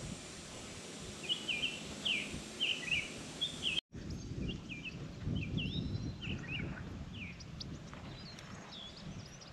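Small birds chirping in quick short notes over a low rustle, with the sound dropping out for an instant about four seconds in.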